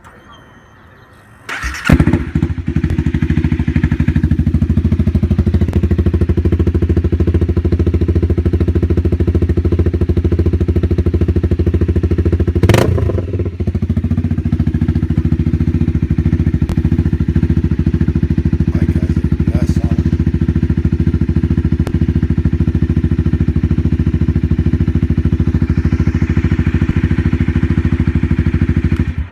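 Cold start of a 2017 Honda CB300F's 286 cc single-cylinder engine through an aftermarket Coffman exhaust. It cranks and catches about a second and a half in, then idles steadily and too loud. There is one brief sharp sound about halfway, and the engine is shut off at the end.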